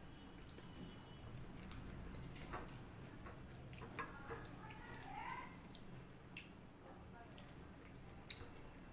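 Quiet eating sounds: soft wet chewing and mixing of rice and dal, with a few sharp mouth clicks.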